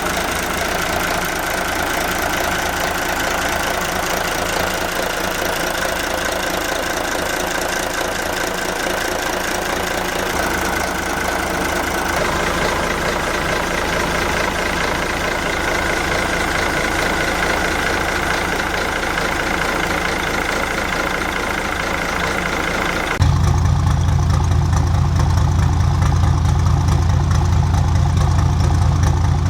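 Yamaha MD580KUH marine diesel inboard engine running steadily with a whining, hissy tone. About 23 seconds in, the sound changes suddenly to a louder, deeper engine sound with much less hiss.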